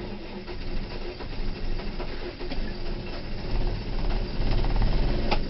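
John Deere 310G backhoe's diesel engine cranking hard in 16°F cold with no glow plugs, then starting to fire and build up about three and a half seconds in as it barely catches.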